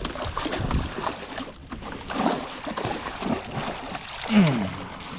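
Water splashing and irregular knocks and clatter as a hooked muskie is fought beside a jon boat, with a short low falling sound about four seconds in.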